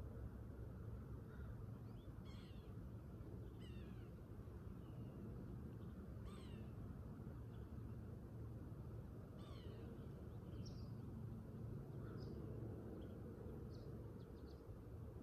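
Birds calling: four high calls, each falling quickly in pitch, a few seconds apart, then a handful of short chirps, over a steady low outdoor rumble.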